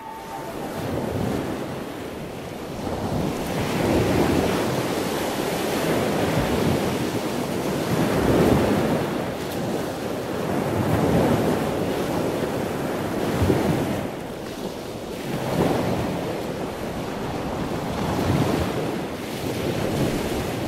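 Water rushing and splashing along the hull and in the foaming wake of a sailing catamaran under way, surging and easing every two or three seconds. Wind buffets the microphone throughout.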